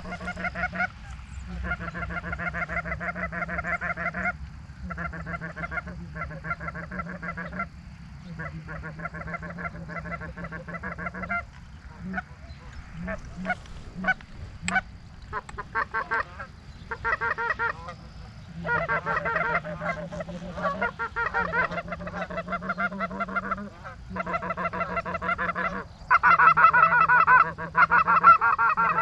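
Goose honking in rapid, rhythmic bouts of a few seconds each with short gaps between them, loudest near the end.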